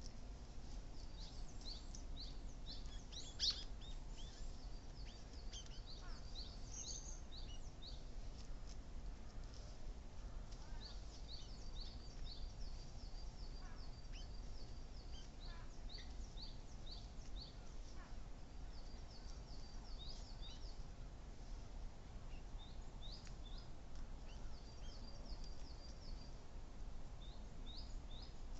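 Small birds chirping: many short, high calls in quick runs, with one sharper, louder note about three and a half seconds in, over a steady low background rumble.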